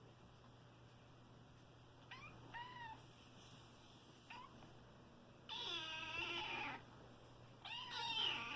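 Young kittens meowing: a few short, high calls, then a longer, louder meow about halfway through and another near the end.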